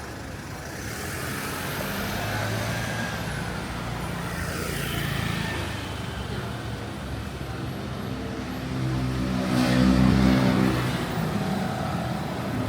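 Street traffic with motor vehicles running past. About nine to eleven seconds in, one vehicle's engine passes close and is the loudest sound.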